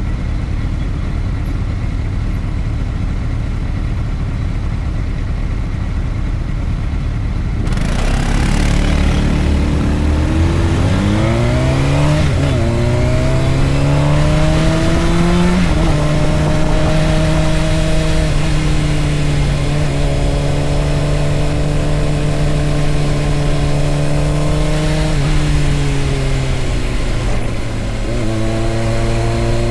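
Low steady engine rumble, then a sport motorcycle's engine pulling away: its pitch climbs with two gear changes, holds steady at cruising speed, and drops off briefly near the end before pulling again.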